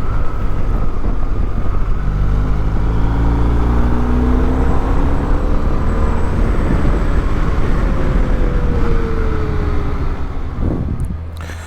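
BMW R 1250 GS flat-twin engine running on the move under heavy wind rush. The engine note climbs for a few seconds, then falls away, and the whole sound eases off near the end.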